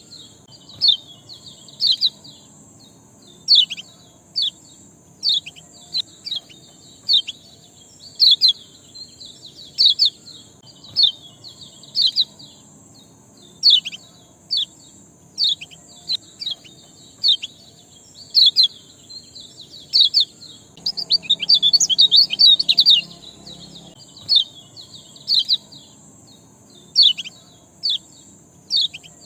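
A songbird giving short, sharp, falling chirps about once a second, breaking into a rapid flurry of chirps about two-thirds of the way through, over a steady faint high hiss. It is a 'ciak' chirping call played as a lure recording to spur caged birds into song.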